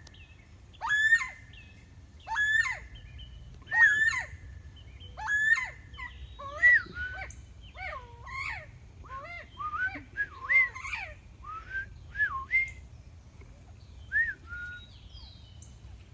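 Northern bobwhite quail calling: five loud whistled calls about a second and a half apart, then a quicker run of shorter, varied whistled notes that thin out near the end.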